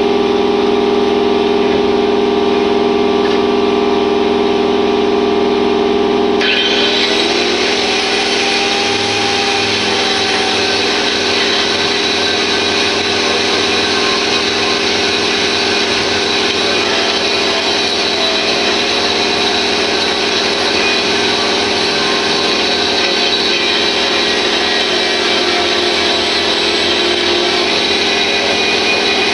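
Handheld power tool running with a steady hum. About six seconds in it bites into a metal pulley bracket and turns into a continuous harsh scouring as the paint is stripped off.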